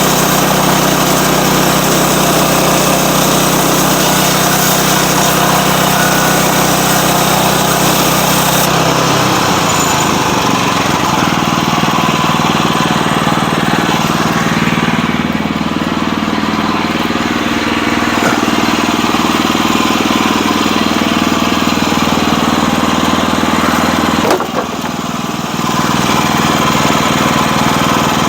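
Sawmill engine running continuously. Its note shifts lower and rougher about a third of the way in, and the sound dips briefly for about a second near the end.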